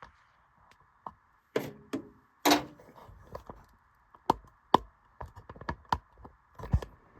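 Handling noise as multimeter probes are worked onto the wires at a furnace gas valve: a string of irregular taps, clicks and knocks, the loudest about two and a half seconds in and again near the end, over a faint steady hum.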